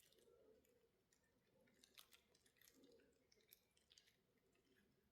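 Near silence, with a few faint, scattered clicks of small parts being handled.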